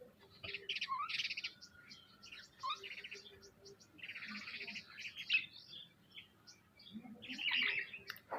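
Several birds chirping and calling in short bunched bursts of rapid notes, some dropping quickly in pitch, with brief pauses between the bursts.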